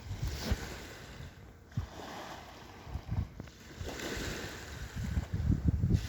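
Outdoor rushing noise of wind and water, with gusts thumping on the microphone, heaviest near the end.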